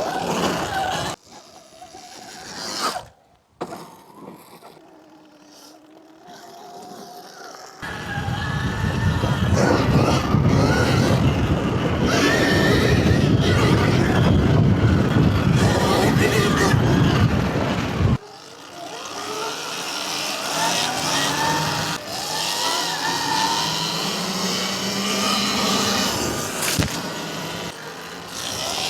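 Surron Ultra Bee electric dirt bikes riding, their motors whining in pitch that rises and falls with the throttle. A loud rushing noise covers the middle ten seconds or so and cuts off sharply.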